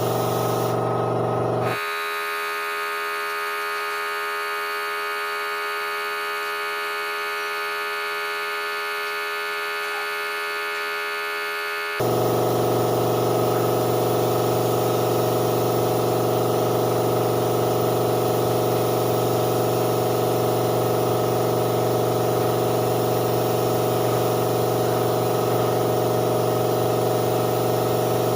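Steady machine drone with a pitched hum that holds one level for long stretches. It changes abruptly about two seconds in, when the deep part drops away, and again about twelve seconds in, when it comes back.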